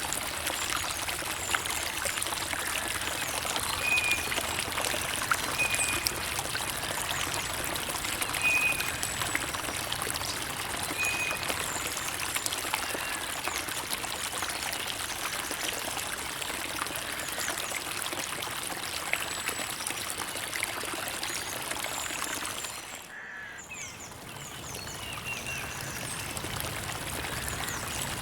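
Creek water trickling and burbling over stones: a steady rush dotted with small splashes. A bird gives four short high chirps in the first half, and the water dips briefly quieter near the end.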